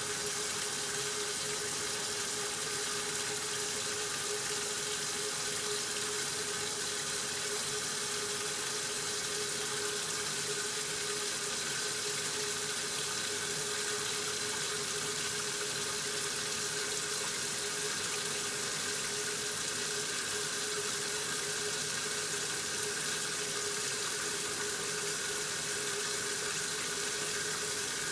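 1969 Westinghouse washing machine running mid-cycle: a steady rush of water with a constant hum, unchanging throughout.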